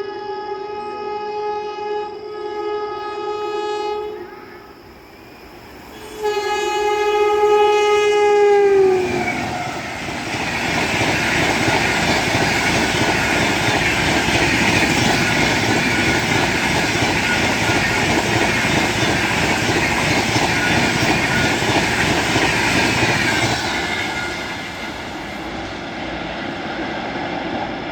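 WAP7 electric locomotive sounding its Train 18-type horn in a long steady blast, then after a short pause a second blast whose pitch drops as the locomotive passes. The noise of the passenger coaches going by at full speed follows and eases off near the end.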